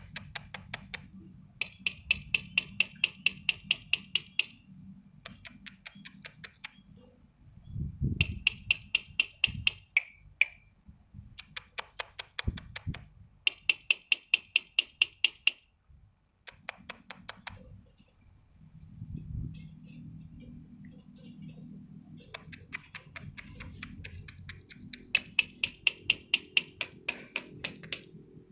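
A bird singing in bouts of rapid, evenly repeated sharp notes, about seven a second, each bout lasting one to three seconds with short pauses between.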